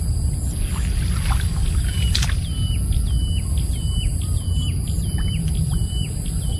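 A bird repeats a short hooked call about every two-thirds of a second from about two seconds in, over a steady low rumble. A few light clicks come before the calls start.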